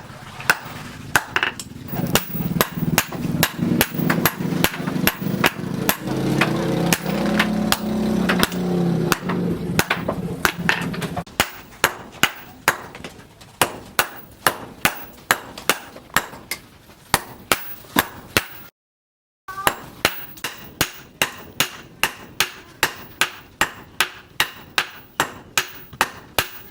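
Hand hammer striking hot leaf-spring steel on an anvil in a steady forging rhythm, about three blows a second at first and slowing to about two a second. A low droning hum runs under the blows for the first ten seconds or so, and the sound cuts out for under a second near the middle.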